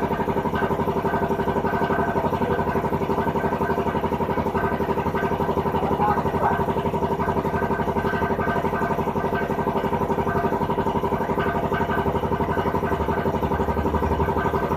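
An engine idling steadily with a fast, even pulse, unchanged throughout.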